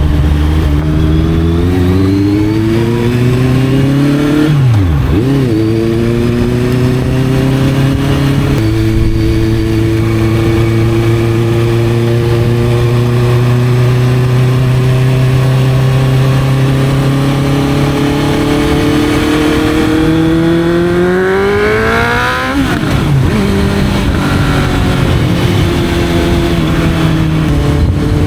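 Honda CB650F inline-four engine with an Arrow exhaust, under way. The revs climb and then drop sharply at an upshift. They hold a long steady drone that slowly builds, climb hard in a long pull, and drop sharply again at a second shift near the end.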